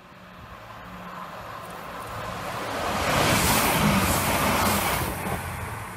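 Green passenger train passing close at speed: a rushing of wheels on rail and air that swells to its loudest about three to four seconds in, then fades as the train moves away.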